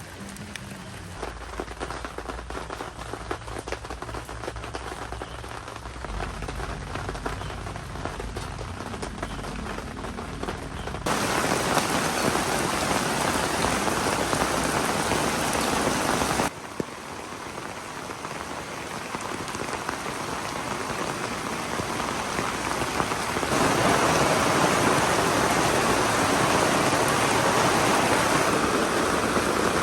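Heavy typhoon rain pouring down steadily, its level changing in sudden steps: louder about eleven seconds in, quieter a few seconds later, then louder again.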